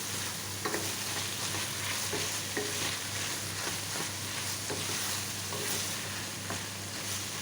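Broad beans frying and sizzling in ghee with browned onions, stirred in the pot with light scrapes and knocks every second or so.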